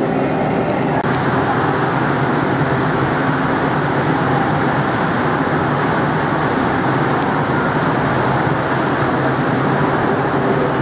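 Steady low machinery drone with a constant rushing noise over it, typical of a cross-Channel ferry's engines under way. The rushing grows a little brighter about a second in.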